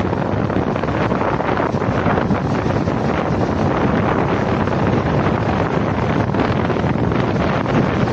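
Loud, steady wind rush on the microphone over the running noise of a moving train.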